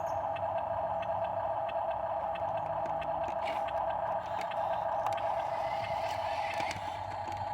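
Huina 1573 radio-controlled dump truck's electric motor and gearbox running with a steady whine, with scattered small clicks.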